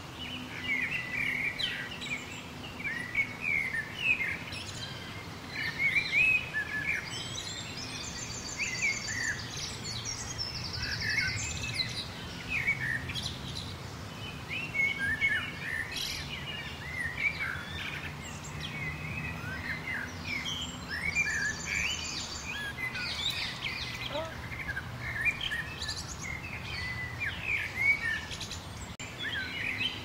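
Several birds chirping and calling in short whistled notes, overlapping one another, with a fast high trill twice, about a third of the way in and again past two-thirds. A faint low steady hum runs underneath.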